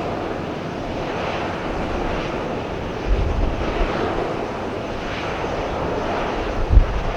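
Boeing 737-800's CFM56 jet engines running, a steady rushing roar. Gusts of wind rumble on the microphone about three seconds in and again near the end.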